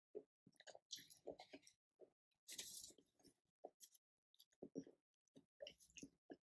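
Faint close-up chewing of a mouthful of taco: a string of short wet clicks and lip smacks. A paper napkin rustles briefly about two and a half seconds in.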